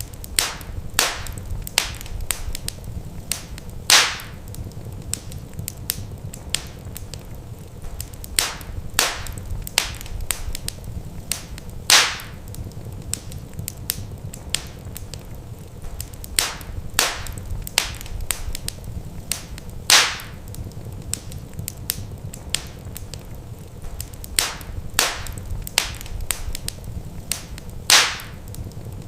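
Wood fire crackling in a fireplace: irregular small snaps and pops over a steady low rumble. A louder pop comes about every eight seconds, and the same pattern repeats each time.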